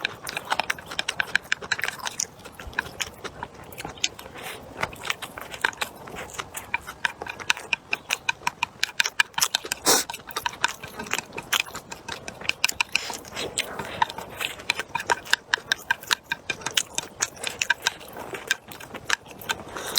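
A person chewing and biting stir-fried pork bone with vegetables close to the microphone: a dense run of sharp clicks and crunches, with the loudest bite about halfway through.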